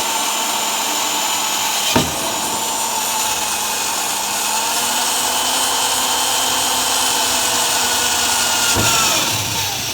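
An electric drill running steadily, boring a small hole through a steel frame rail and floor pan, with a sharp click about two seconds in. Near the end the drill's whine drops in pitch as it slows.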